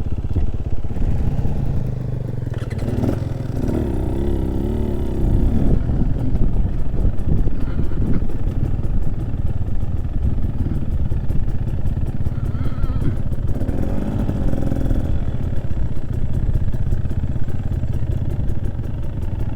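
Trail motorcycle's engine running as it is ridden along a rough track, a steady low rumble.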